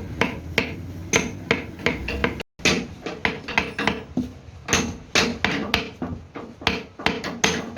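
Hand hammer striking repeatedly in a steady rhythm of about three blows a second. The sound cuts out briefly about two and a half seconds in.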